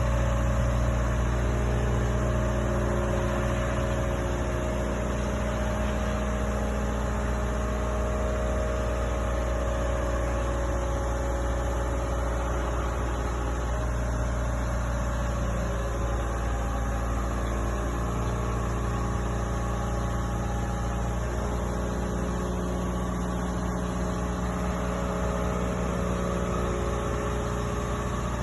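A vehicle engine idling steadily, its pitch shifting slightly now and then.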